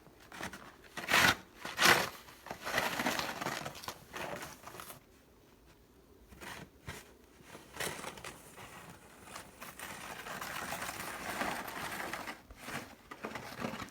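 Snow shovel scraping across a driveway and pushing fluffy snow. Two short, sharp scrapes come near the start, then there is a pause, and later one long, steady push.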